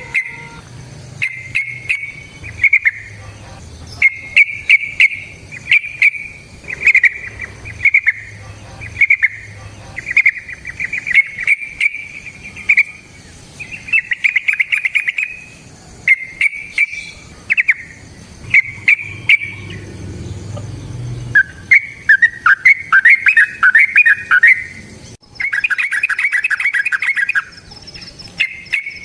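Yellow-vented bulbul (trucukan) singing: short, bubbly warbled phrases repeated one after another, with a denser, faster run of notes near the end.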